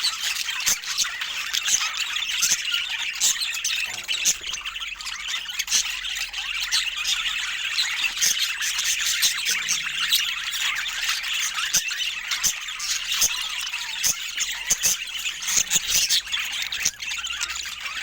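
Budgerigars chattering, a dense run of rapid chirps, clicks and squawks.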